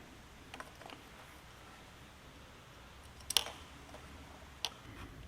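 A few light clicks and taps of small carburetor parts being handled and fitted by hand: two faint ticks early, a sharper click about three and a half seconds in, and another near the end.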